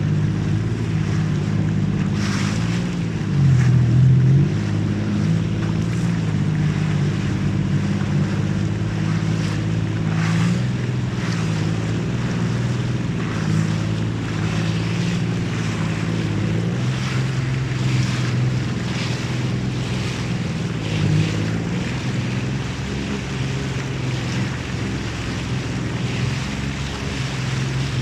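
Motorboat engine running steadily, its pitch wavering slightly, with water splashing and wind on the microphone.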